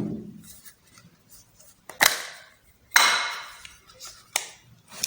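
Canon EF-S 18-55 kit lens and its plastic caps being handled and mounted on a Canon EOS 3000D body. There is a sharp click about two seconds in, then another click with a short scrape a second later, then a third click near the end.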